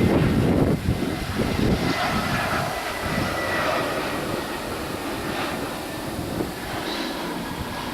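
Jet airliner's engines rumbling as it passes, loudest over the first two seconds and then fading, with a thin whine above the rumble.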